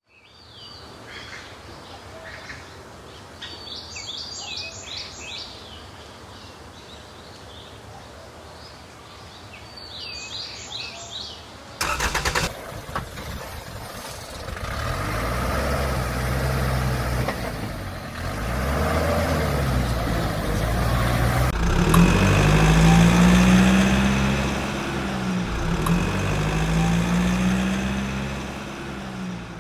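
Bird chirps come a few at a time over a quiet background. From about twelve seconds a vehicle engine runs, its pitch rising and falling over and over as if being revved.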